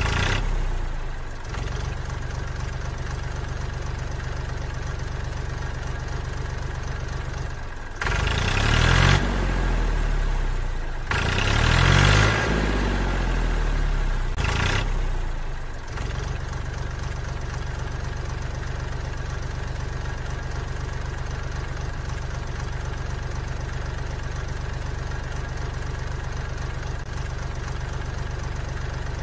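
Tractor engine sound idling steadily with a low, even beat, revved up twice over several seconds about a third of the way in, the pitch rising and falling, then settling back to a steady idle.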